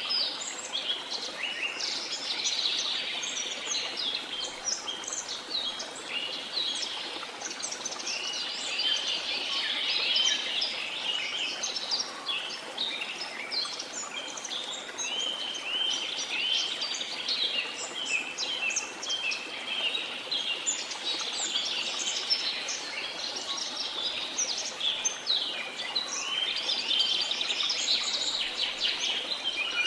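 A dense chorus of many birds chirping and trilling without pause, over a steady hiss of running water.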